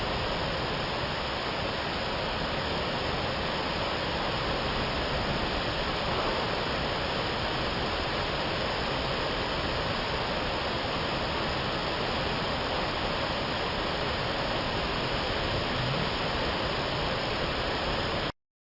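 Steady rush of the Songgo Langit waterfall's falling water, cutting off suddenly near the end.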